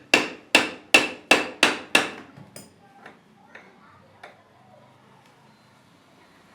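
A quick run of hard hammer blows, about three a second, each with a short ring. After about two seconds they give way to a few lighter, scattered knocks.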